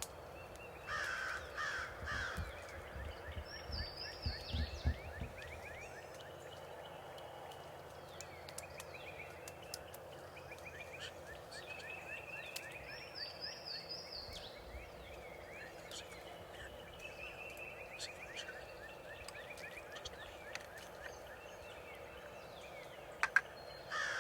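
Wild turkeys gobbling, a rattling call about a second in and again near the end, with other birds chirping and trilling in between.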